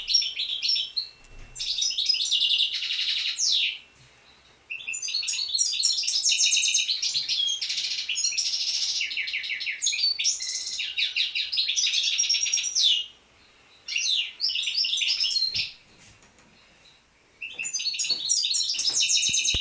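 Songbird singing: long phrases of fast, high-pitched trills and chirps, broken by short pauses at about 4, 13 and 16 seconds in.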